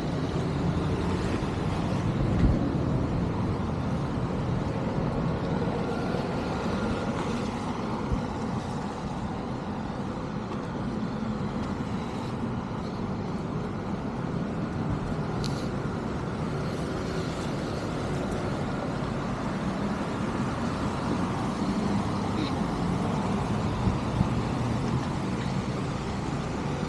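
Steady outdoor street noise: road traffic rumbling past, with a few faint clicks.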